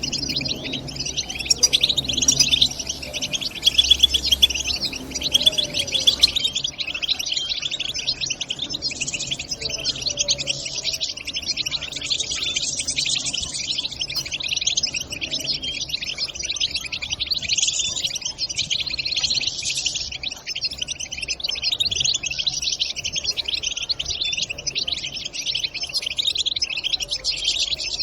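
European goldfinches chattering and twittering in an unbroken stream of rapid chirps: the 'batbata' chatter played to get caged goldfinches singing.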